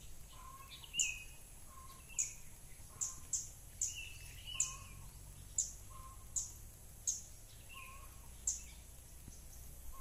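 Birds calling: a run of short, sharp, high chirps roughly once a second, with shorter lower notes between them, over a faint steady low background rumble.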